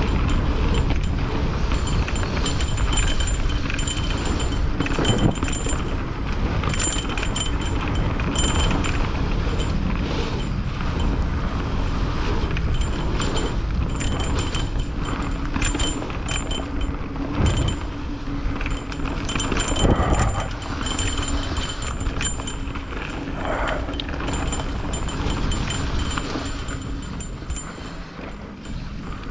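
Mountain bike being ridden on a dirt trail: a steady rumble of tyres and wind on the microphone, with occasional knocks from the bike over rough ground and intermittent runs of rapid high ticking.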